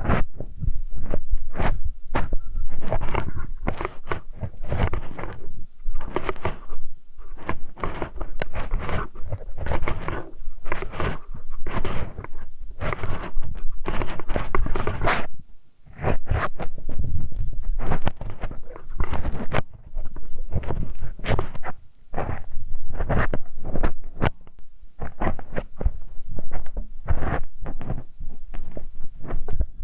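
Close-up ear-cleaning ASMR sounds: a metal hex key rubbing, scraping and knocking against a microphone ear, in many quick irregular strokes with heavy low thuds.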